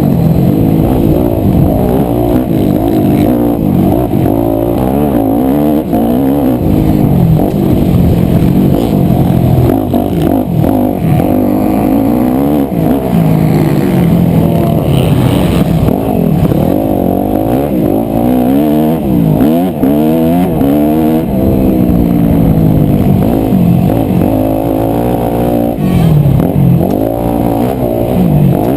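Yamaha YZ250F four-stroke single-cylinder motocross bike engine being ridden hard, revving up and down again and again as the rider accelerates, shifts and backs off around the track.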